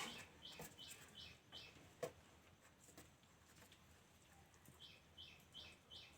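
Faint, high chirps from a small bird, repeated about two or three times a second in two runs, with a few soft taps in between.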